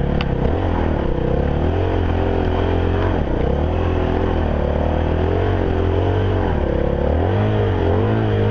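Dirt bike engine running under the rider's throttle, the revs rising and falling over and over.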